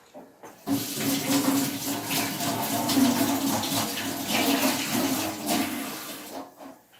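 Water running from a kitchen tap, turned on suddenly less than a second in and running steadily for about six seconds before it tails off.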